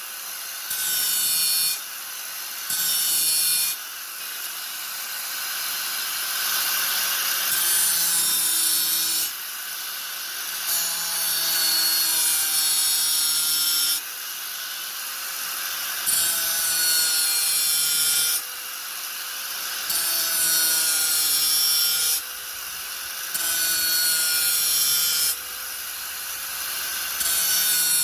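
Angle grinder running steadily and being pressed into the work again and again, in loud hissing passes of a few seconds each, with quieter stretches between them where only the motor's whine is heard.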